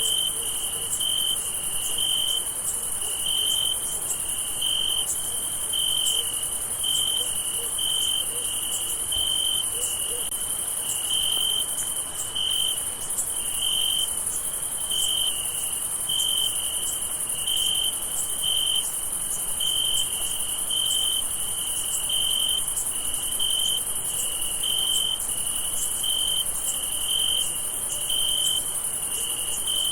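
Night chorus of crickets. A steady, regular chirping repeats about once a second over a continuous high-pitched insect trill.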